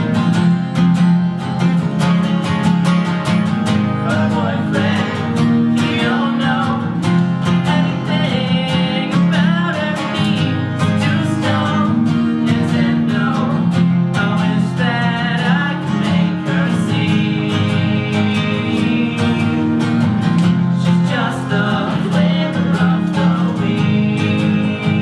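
Live guitar music from a song being performed: steady, sustained low chords under a wavering melody line higher up.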